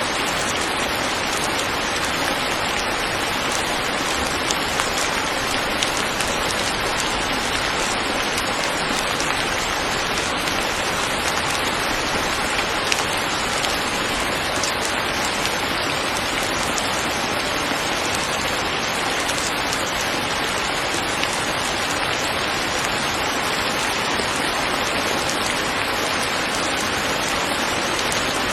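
Steady rain falling, an even hiss of rain with occasional individual drops ticking through it.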